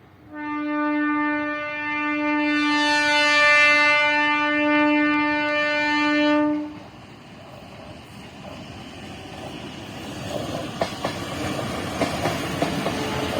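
Indian Railways locomotive horn sounding one long steady blast of about six seconds, then the rising rumble of the approaching train with wheels starting to clack over rail joints near the end.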